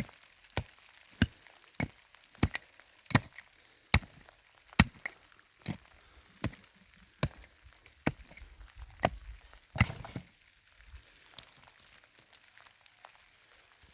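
Hand tool chopping with steady, evenly spaced sharp strikes, about one and a half a second for some ten seconds, then stopping.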